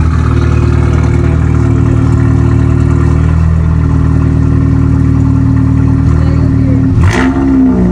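Car engine idling loudly and steadily, with a quick blip of revs about seven seconds in.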